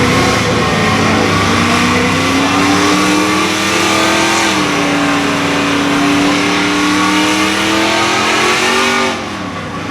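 A drag-racing truck's engine runs at full throttle, its pitch climbing. About four and a half seconds in the pitch drops suddenly at an upshift, then holds and climbs again. Near the end the engine note falls away as the driver lifts off.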